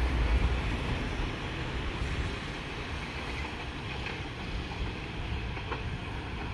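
Diesel train rumbling as it runs away down the track. Its low rumble fades over the first couple of seconds and then holds steady and fainter.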